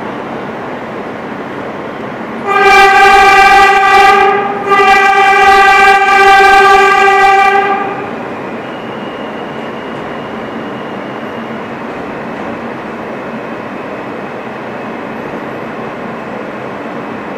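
New York City subway train horn sounding two long blasts, the second longer, over the steady rumble of an R160 train running through the tunnel.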